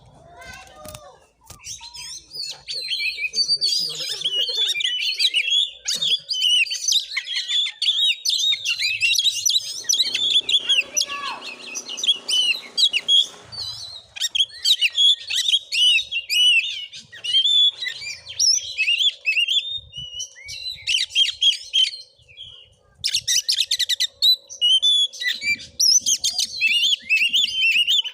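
Oriental magpie-robin (kacer) singing a fast, varied stream of chirps and whistles, pausing briefly about 22 seconds in.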